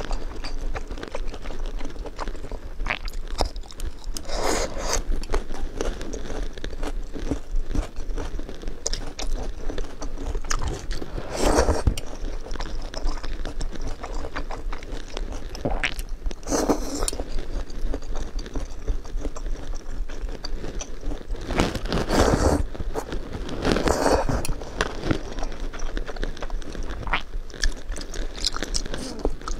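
Close-up chewing and crunching of spicy hot-pot food: crisp lotus root slices, potato slices and glass noodles. Louder bursts of bites come every few seconds over steady chewing.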